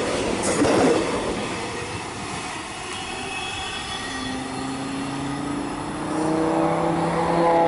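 Electric suburban train pulling away along the track: its running noise is loud for the first second or so, then fades. From about halfway, an electric train whine rises slightly in pitch and grows louder toward the end.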